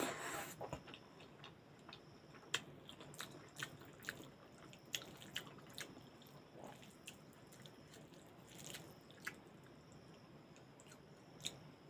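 A person chewing a mouthful of rice with cooked leafy greens and potato, with many short wet mouth clicks and smacks. Now and then there is the soft squish of rice being mixed by hand on the plate.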